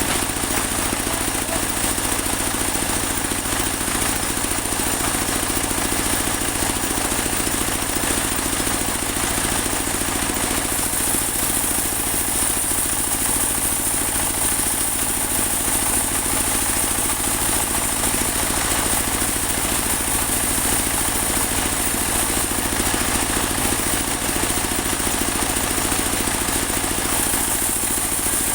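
Engine-driven portable band sawmill running steadily. A high hiss grows louder from about eleven seconds in and eases off near the end.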